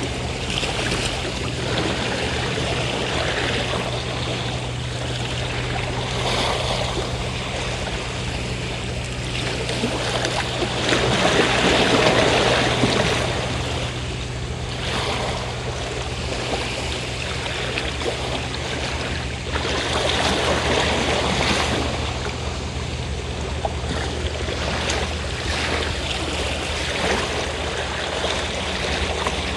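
Sea waves washing onto the shore, the surf swelling louder twice and easing back. Underneath runs the steady low drone of a fishing boat's engine.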